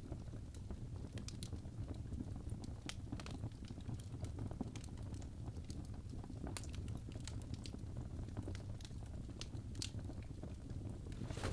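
Fire in a fireplace crackling: irregular sharp pops and snaps over a steady low rumble of the flames, with a louder flurry of crackling at the very end.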